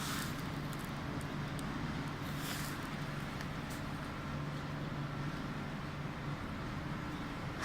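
Steady electric-motor hum of tunnel car wash machinery running, with brief hisses at the start and about two and a half seconds in.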